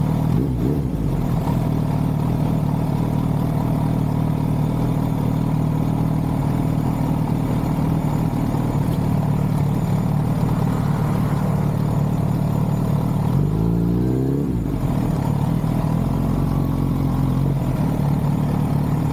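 Motorcycle engine running steadily while riding. About thirteen seconds in, its note rises quickly and then settles back.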